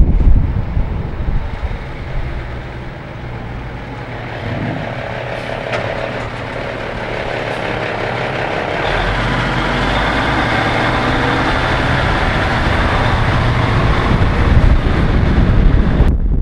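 Cummins NHC-250 inline-six diesel of an AM General M923A1 6x6 army truck running on the road. It is loud at first, eases off, then builds steadily louder through the second half as the truck pulls away.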